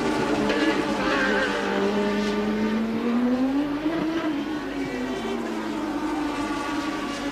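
Late-1980s Formula One car engines running at high revs, their pitch rising and falling as the cars accelerate and lift off around the circuit, with more than one engine note heard at once.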